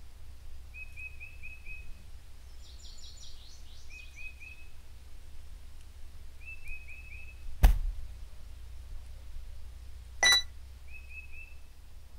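Small birds chirping in short, repeated trills over a steady low rumble. A single sharp thump comes about eight seconds in, and a short electronic beep from the vending machine about two seconds later.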